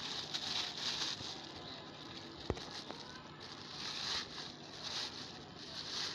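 Irregular rustling as a person walks off carrying a bag of collected plastic litter, with one sharp click about two and a half seconds in.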